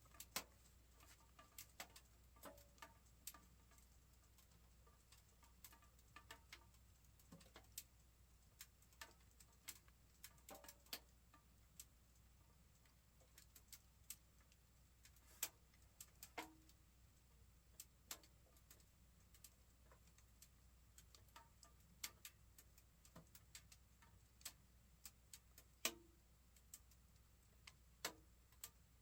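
A lit wood stove giving faint, scattered sharp cracks and pops at irregular intervals, a few with a brief low ring, over a faint steady hum.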